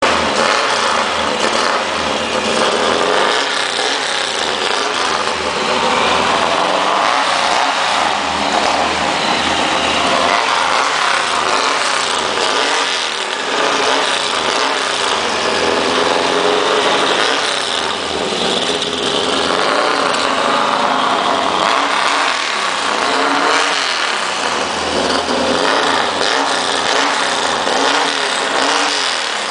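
Turbocharged air-cooled VW Beetle flat-four engine running and revving up and down repeatedly.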